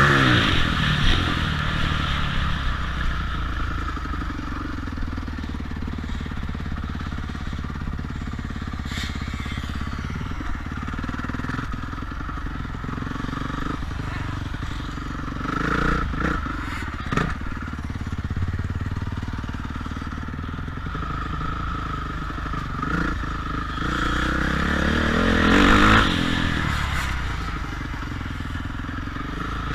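Motocross bike engines revving as they ride, loud at the start, swelling again about halfway and near the end, with fainter engine sound between and a couple of sharp clicks.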